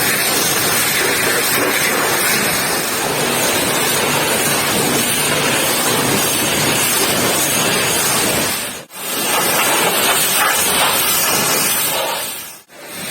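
Pressure washer jet spraying water in a steady, loud hiss, which cuts out briefly twice.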